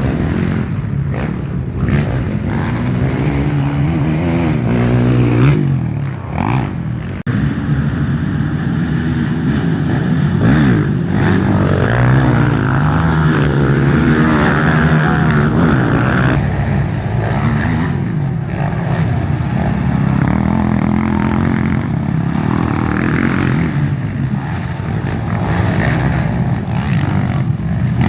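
Racing quads' 450 cc four-stroke single-cylinder engines revving hard, their pitch rising and falling again and again as they accelerate and back off, several engines overlapping.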